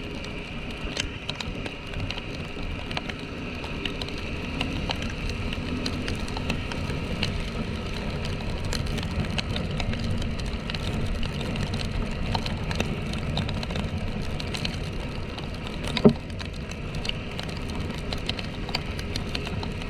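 Small single-cylinder motorcycle engine running steadily while riding in rain, with rain hiss and many small ticks of raindrops. There is one sharp knock about 16 seconds in.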